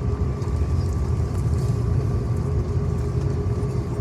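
Steady low rumble of an Airbus A330's cabin on the ground after landing, its engines running at low power as it taxis, with a faint steady whine over the rumble.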